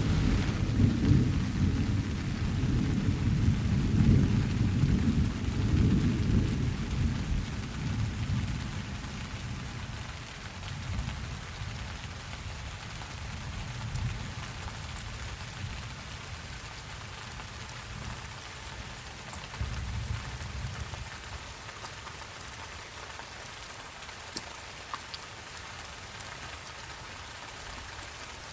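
Steady rain falling, with a long roll of thunder at the start that dies away over about eight seconds, followed by a few fainter distant rumbles.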